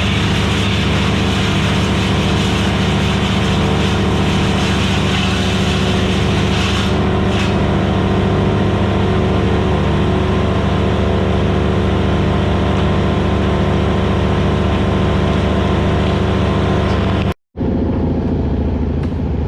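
Vermeer BC1000XL gas wood chipper's engine running with a loud, steady drone. The sound cuts out for an instant near the end, then a similar steady engine sound carries on.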